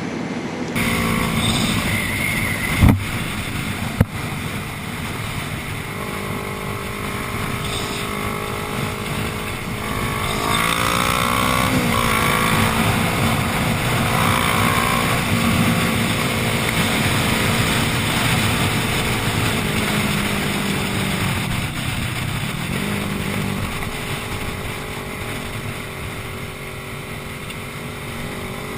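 Yamaha R1 sport bike's inline-four engine running while under way, over a steady rush of wind noise. There are two sharp knocks about three and four seconds in, and the engine note climbs about ten seconds in before settling.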